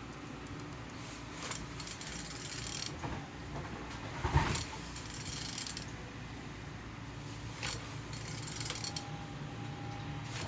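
Used engine 11J939 being turned over by hand: irregular mechanical clicking and rattling in bursts, with a louder clunk about four seconds in. The engine turns freely, a sign that it is not seized.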